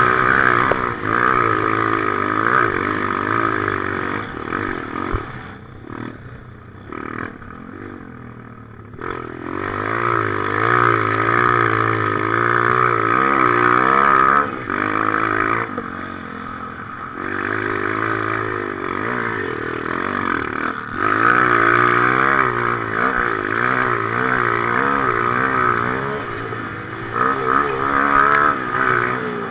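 Motocross motorcycle engine heard from the rider's head-mounted camera, its pitch rising and falling constantly as the throttle is worked. It eases off for a few seconds about five seconds in, then is opened up again and stays loud.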